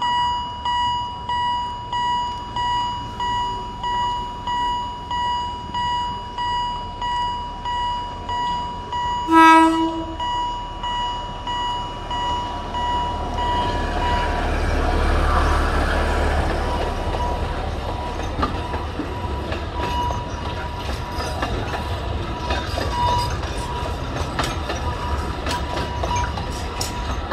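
A warning bell beats in steady pulses, about one and a half a second. A short blast of the DL51 diesel locomotive's horn sounds about a third of the way in. Then the locomotive and four wooden coaches rumble past, the wheels clicking over the rail joints.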